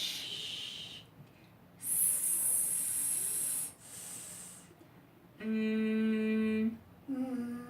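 A voice making sustained speech sounds for a hearing check, the Ling sounds: a long "shh" that ends about a second in, then a long, higher "sss", then a steady hummed "mmm", with a short voiced sound near the end.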